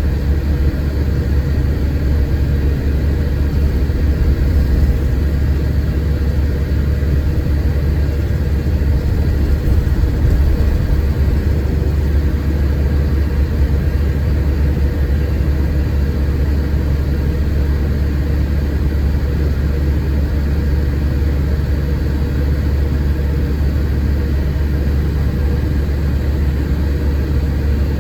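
Scania K410 coach's 13-litre straight-six diesel engine running steadily with a deep, even drone, heard from inside the bus cabin.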